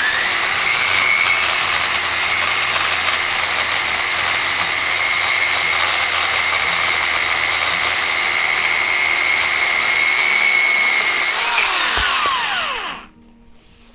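DekoPro 8-amp corded electric chainsaw on its pole running: it spins up at once to a steady high whine, holds for about eleven seconds, then winds down in falling pitch and stops.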